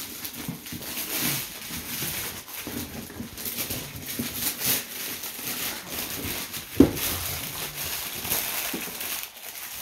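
Wrapping paper crinkling and rustling in irregular crackles as presents are unwrapped, with one short, sharp, loud sound about seven seconds in.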